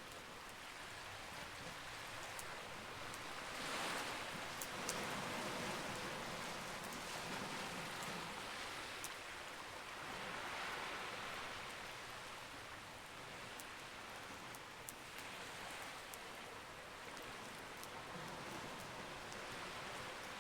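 Campfire crackling with scattered sharp pops over ocean waves washing in, the wash swelling and fading every five or six seconds.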